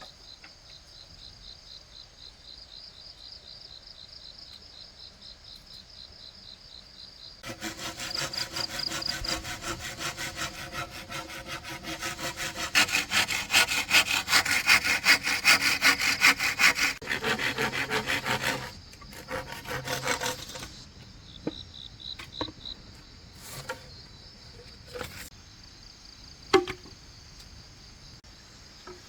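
Hand saw cutting through wood, most likely bamboo, in fast, even back-and-forth strokes for about thirteen seconds, starting about seven seconds in. It runs over a steady pulsing chirr of crickets, and a few sharp knocks come after the sawing stops.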